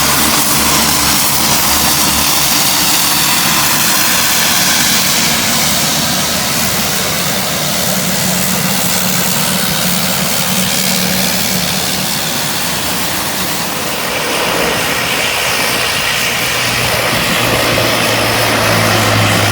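Aircraft engines running loud during a flying display, a steady hiss mixed with engine hum whose pitch drops lower about two-thirds of the way through as the aircraft passes.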